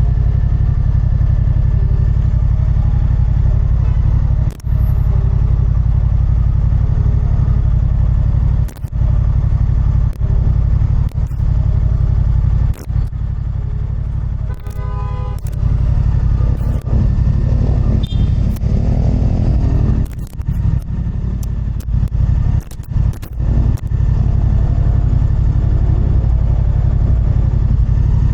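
Motorcycle riding at speed: heavy wind rumble on the rider's microphone, with short dropouts, over the bike's engine. The engine note rises as it revs up about eighteen seconds in.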